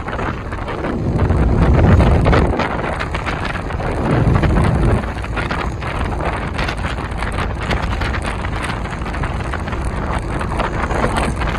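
Hyundai New Super Aero City city bus's CNG engine running as the bus drives, the engine sound swelling louder twice, about two seconds and about four and a half seconds in, then steady, with scattered rattles.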